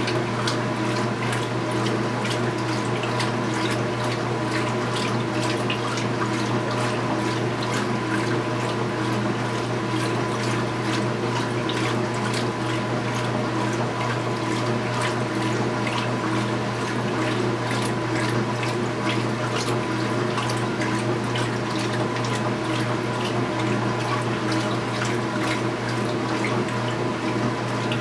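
2015 Speed Queen 8 Series top-load washing machine running mid-cycle: a steady motor hum with water splashing and trickling inside the tub.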